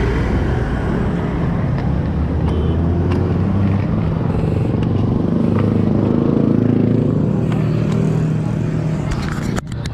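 Motorcycle engine running steadily under way, its note shifting slightly up and down, with road and wind noise around it.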